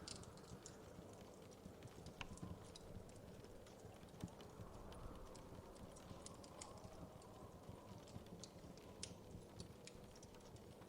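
Faint wood fire crackling: irregular small pops and snaps over a low, steady rumble.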